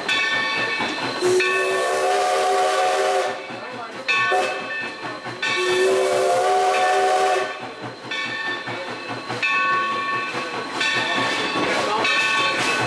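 Steam whistle of 2-8-2 steam locomotive 3025 blowing two long chord blasts with a strong steam hiss, the first about a second in and the second about five seconds in. A high ringing sound comes and goes between and after the blasts, over the running of the train.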